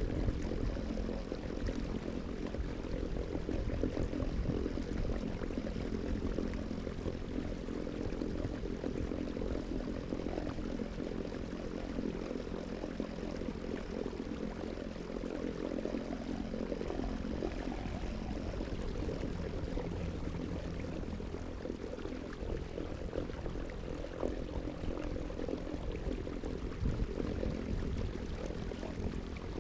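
Steady mechanical hum made of several held tones, over a low rumble and water noise.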